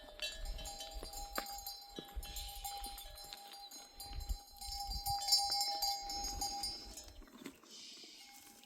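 Bells on a grazing flock of sheep and goats clanking and ringing irregularly as the animals move, with a held bell tone under scattered knocks.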